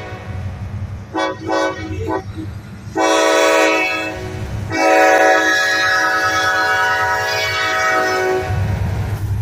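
Canadian National SD70M-2 locomotive sounding its Nathan K5LLA five-chime air horn for a grade crossing. It gives a few short toots, then a long blast, then a longer one, deafening at close range. The locomotive's low diesel rumble swells as the horn stops near the end.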